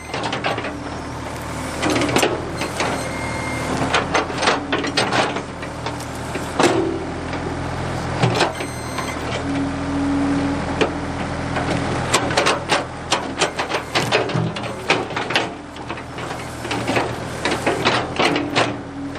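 Ford 555 backhoe's diesel engine running steadily under load, with many sharp clanks and cracks on top as it works stumps and trees.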